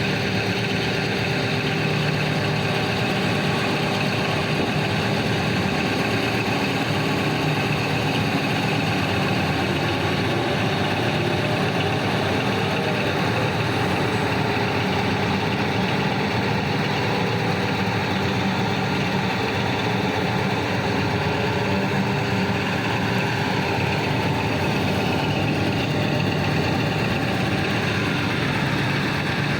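Heavy diesel engines of large mining machines, a wheel loader and haul trucks, running steadily: a constant low drone with a steady tone, unchanging in level.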